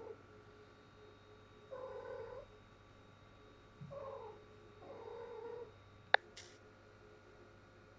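A cat in heat giving three low, drawn-out calls, the last one longer, followed a second later by a single sharp click.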